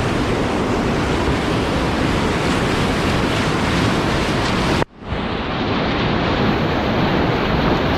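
Whitewater rapid rushing in a steady, loud roar of moving water. About five seconds in, the sound drops out for an instant, then returns duller.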